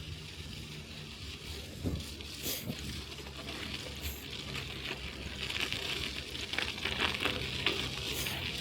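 Bicycle tyres rolling over snow: a steady crackling hiss with scattered crunches, getting louder and grittier about halfway through.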